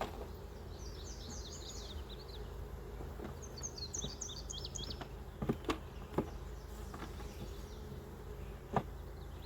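Honey bees buzzing steadily around an open hive, a constant buzz, with a few sharp wooden knocks about halfway through and again near the end as hive frames and the brood box are handled.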